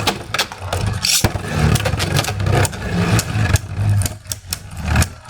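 Two Beyblade spinning tops whirring in a stadium, with many sharp clicks as they strike each other and the stadium wall.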